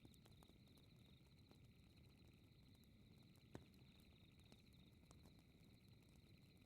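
Faint night ambience: crickets trilling steadily under the small, scattered pops of a crackling wood fire, with one sharper pop about three and a half seconds in.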